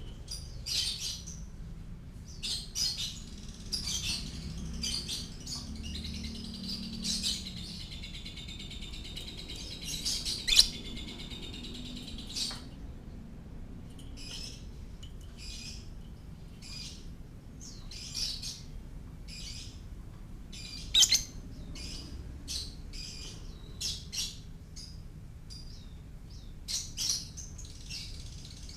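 Lovebird chirping and chattering: sharp, high calls every second or so, with a long warbling trill lasting about four seconds, starting some eight seconds in.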